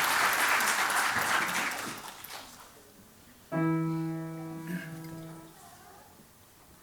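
Audience applause dies away. About three and a half seconds in, a single piano note sounds and fades over about two seconds: the starting pitch given to an unaccompanied choir.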